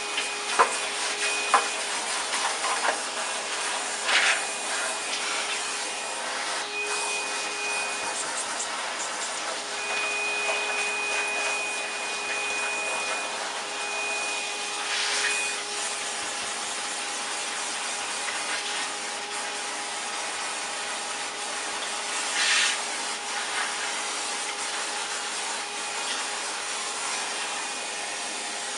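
A vacuum cleaner running steadily, its nozzle rubbing and scraping over the parts as it sucks out dust, with a thin whistle of air that comes and goes. A few sharp knocks in the first two seconds.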